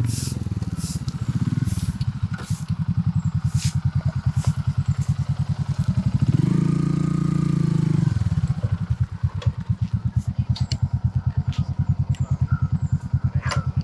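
Motorcycle engine running at low revs with a steady low pulsing beat, given a brief burst of throttle midway. Scattered sharp clicks and rattles come in the first few seconds.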